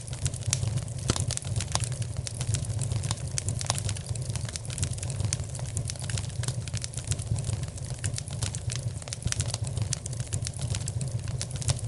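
Wood fire crackling in a fireplace: many sharp, irregular snaps and pops over a steady low rumble.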